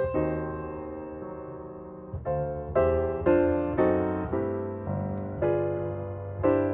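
Piano music: single notes and chords struck at a slow, gentle pace, each ringing and dying away, with one long chord held for about two seconds near the start before the melody resumes.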